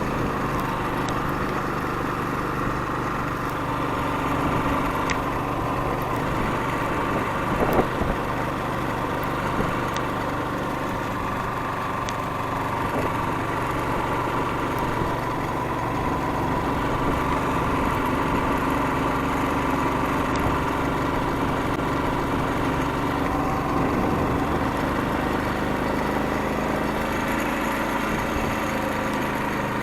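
Motorcycle engine running steadily at an even pitch, with a brief sharp knock about eight seconds in.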